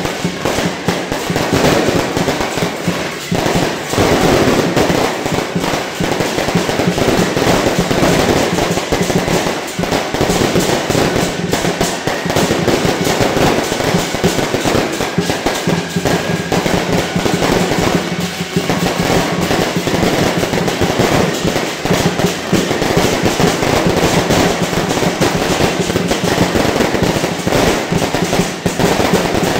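Fireworks and firecrackers crackling densely and without pause, with music playing underneath.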